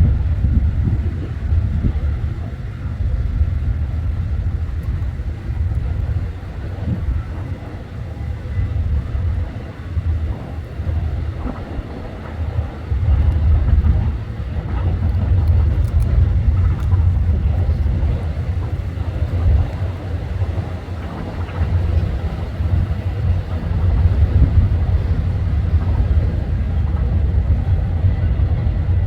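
Freight train passing with a low rumble, louder in the second half.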